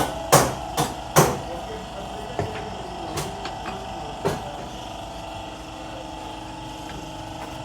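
Hammer blows knocking on the front hub during a wheel-bearing job: four quick strikes in the first second and a half, then three more spaced out over the next few seconds, over a steady background hum.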